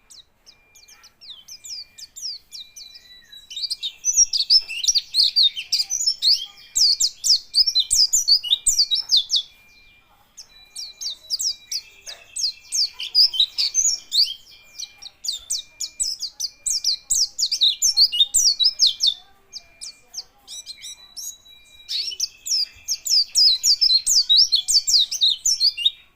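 White-eye (pleci) singing: long runs of fast, high twittering chirps, in three bursts separated by short pauses.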